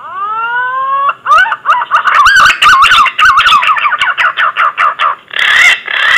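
Green pigeon (punai) lure call: one whistled note sliding upward for about a second, then a fast run of warbling, wavering whistled notes, closing with a rougher, harsher note.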